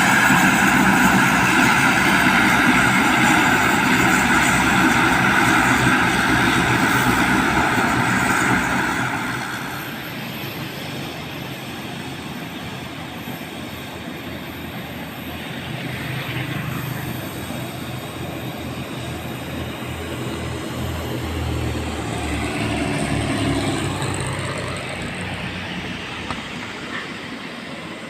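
Propeller airliner's engines running loud with a steady high whine, dropping away about nine seconds in to a quieter low rumble that swells and fades.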